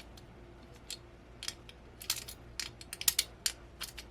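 Sharp, irregular metal clicks and clinks of a nut being tightened onto a metal VESA mount bracket with a small hand tool, sparse at first and coming faster from about two seconds in.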